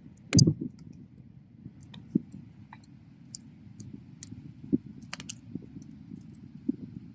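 Wood bonfire burning: a steady low rumble of flame with scattered sharp crackles and pops, the loudest pop about half a second in and a quick pair of pops around five seconds.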